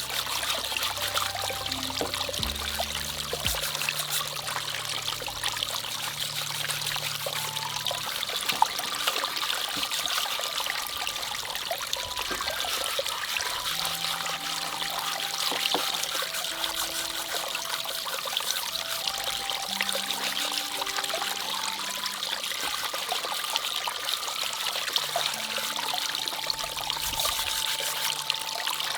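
Water trickling and pouring steadily, with soft instrumental background music of slow held notes underneath.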